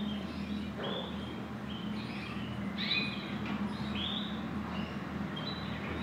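Cage birds chirping: short high calls with quick pitch glides, one or two a second, over a steady low hum.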